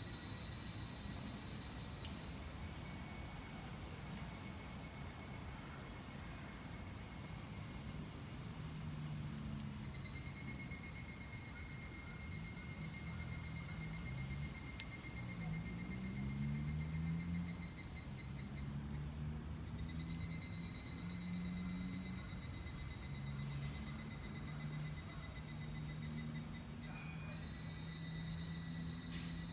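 Higurashi (evening cicadas) calling: long pulsing phrases that start and stop every several seconds and overlap one another, over a steady high insect hiss. A low hum that wavers in pitch runs underneath.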